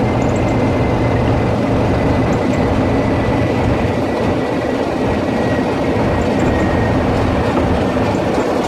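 Train running on the line: steady rolling noise of wheels on rails, with a low hum and a faint high whine that slowly drops in pitch.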